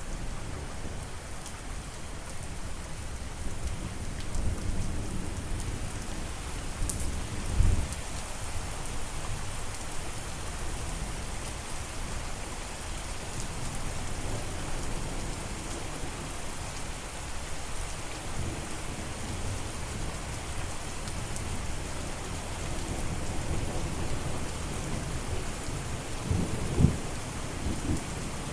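Steady rain falling, with low rolls of thunder rumbling underneath; sharper low thumps stand out about eight seconds in and again near the end.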